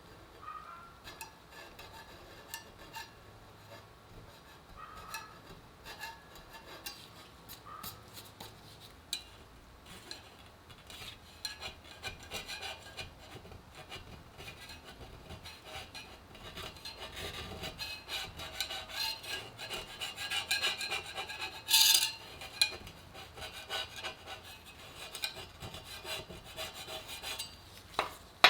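Hand tools scraping and rubbing on bicycle parts, with scattered small clicks. It grows louder about halfway through, with one brief, louder scrape about three-quarters of the way in.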